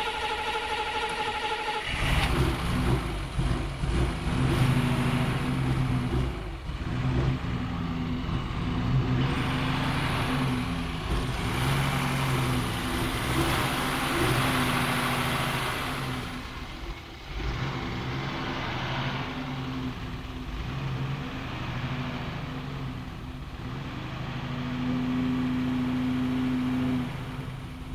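Mercedes-Benz Unimog 404's petrol inline-six engine running and being revved up and down repeatedly, after a steady high whine in the first two seconds.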